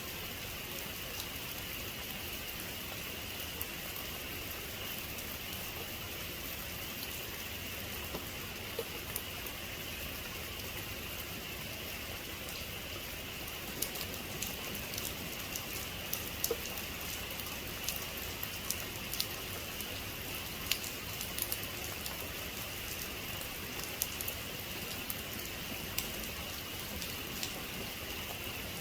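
Steady rain falling, with individual drops ticking sharply on a hard surface, more often in the second half.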